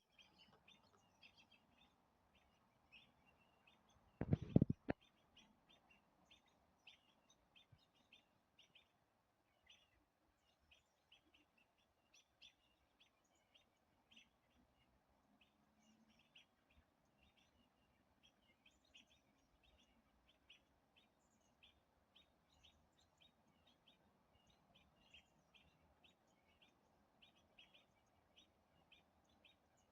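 Faint, quick, repeated chirps of small birds scolding a perched owl they are mobbing. About four seconds in there is a brief, louder cluster of knocks.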